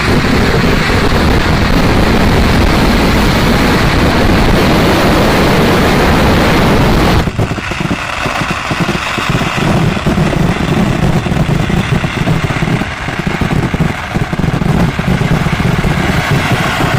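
A dense fireworks barrage, with crackers going off so fast that they merge into one continuous loud roar, then from about seven seconds in breaking into rapid separate bangs and crackles.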